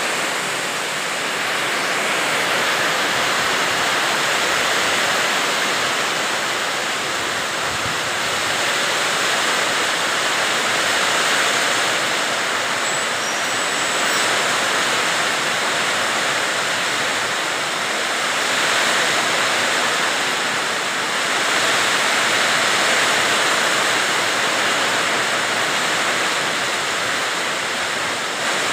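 Heavy rain pouring down steadily, its hiss swelling and easing in slow waves.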